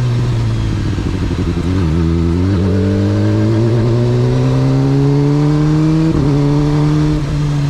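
Motorcycle engine under way: it eases off early, then pulls steadily with its pitch climbing slowly for several seconds, with a brief break about six seconds in and the pitch dropping near the end.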